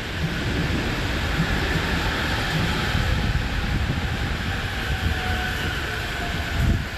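Electric commuter train running through the station, a steady rumble with a faint whine riding over it.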